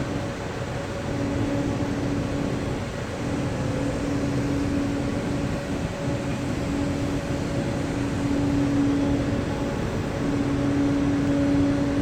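Steady industrial machinery noise at the top of a coal-fired power station boiler, with a low hum that swells and fades every second or two.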